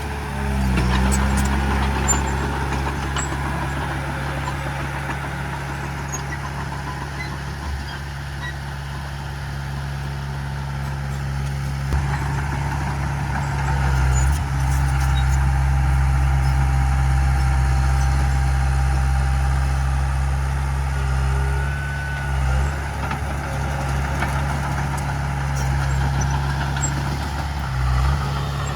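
Heavy diesel engines of earthmoving machinery running steadily with a low, even hum, the engine note dipping briefly three times, once around the middle and twice near the end.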